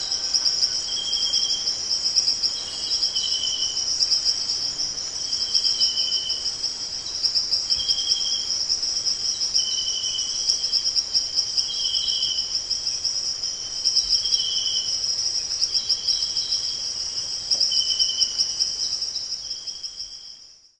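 Steady high-pitched insect chorus with a fast pulsing trill, joined by short repeated chirps about once a second; it fades out near the end.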